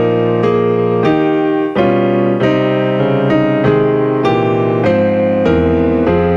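Piano playing a steady run of chords, a new chord struck roughly every half second.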